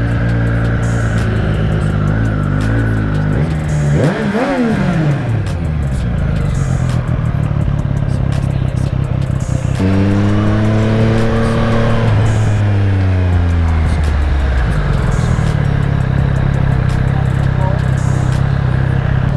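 Motorcycle engine running steadily, with a quick rev up and back down about four seconds in, and a longer rev whose pitch climbs and then falls away between about ten and fourteen seconds.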